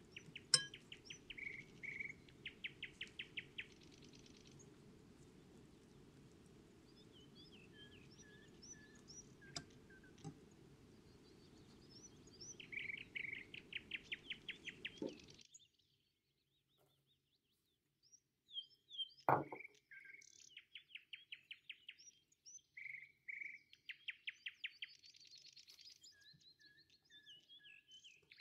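Songbirds chirping and singing, with fast trills of repeated notes and short rising and falling whistles. A low steady hum drops out about halfway through, and a single dull thump stands out about two-thirds of the way in.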